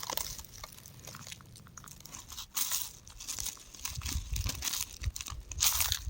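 Rock crumbling and crunching in irregular bursts of small crackles and grinding, sparse at first and louder from about two and a half seconds in.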